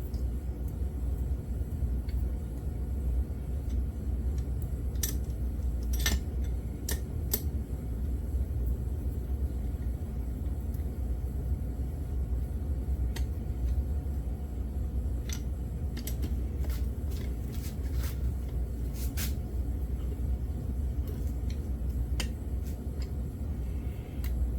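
Scattered light metallic clicks and taps of hand tools and bolts being worked on the engine cases of a YZ80 being rebuilt, over a steady low rumble.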